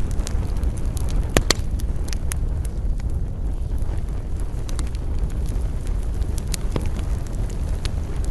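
Wood campfire crackling, with scattered sharp pops over a steady low rumble; two louder pops come close together about a second and a half in.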